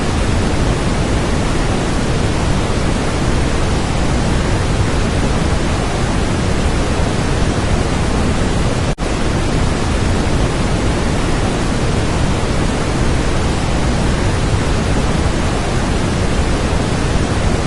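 Waterfall pouring: a loud, steady, thunder-like rush of water, broken by a split-second dropout about nine seconds in.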